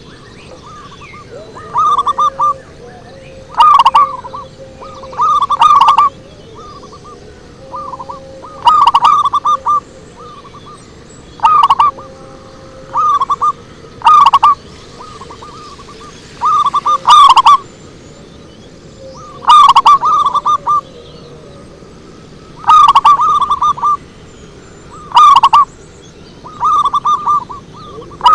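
Zebra dove (perkutut) cooing: short phrases of quick stuttering coo notes repeated every couple of seconds, the loudest phrases harsh and distorted. Faint chirps of other birds sound between phrases.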